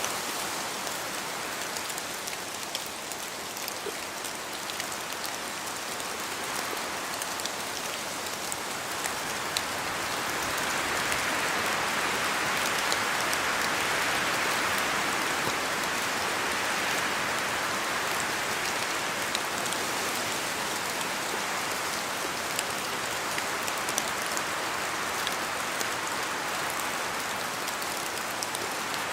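Rain falling steadily through forest trees, a continuous rushing hiss flecked with the ticks of single drops. The rush swells louder about a third of the way in and eases off again after the middle.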